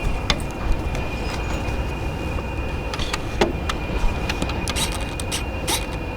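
Railway train running: a steady low rumble with scattered sharp clicks and knocks.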